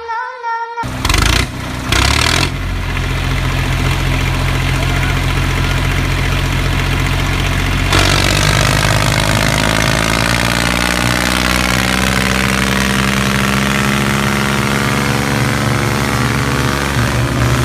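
Tractor engine starting about a second in with a couple of short catches, then running steadily at a low, even pitch; its note shifts around eight seconds in.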